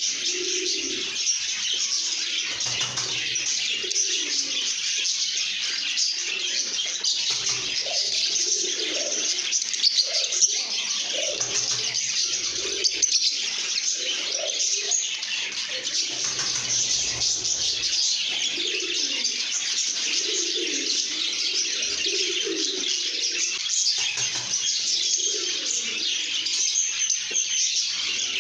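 A flock of lovebirds chattering and chirping nonstop, a dense mass of high calls with lower calls recurring underneath.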